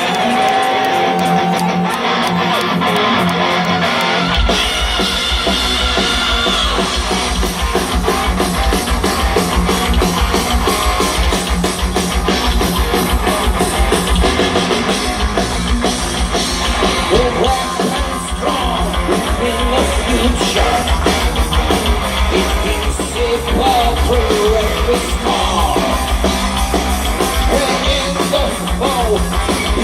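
Live heavy metal band playing an instrumental passage: electric guitars, with drums and bass guitar coming in hard about four seconds in, then a lead guitar playing bending lines over the full band.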